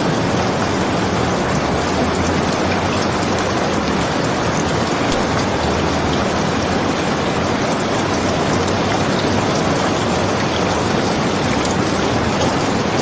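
Steady, heavy rain: a dense, even hiss that does not change, with faint small ticks scattered through it.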